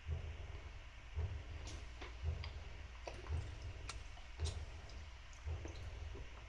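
A soft low thump repeating steadily about once a second, with scattered light clicks in between.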